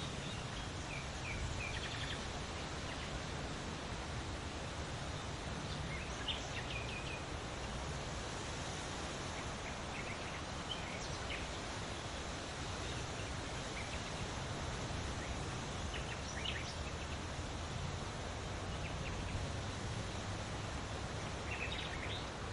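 Outdoor ambience of steady background noise with a low rumble, and scattered bird chirps in brief clusters of a few notes every few seconds.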